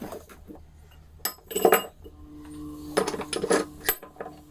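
Metal tools and parts clinking and knocking together in two short clusters as a steel drift and bearing puller are fitted to a washing machine's drum bearing. A steady low hum runs underneath from about halfway in.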